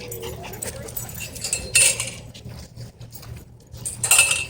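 Metallic clinking and jingling, in two short louder bursts about two seconds apart, over a steady low rumble.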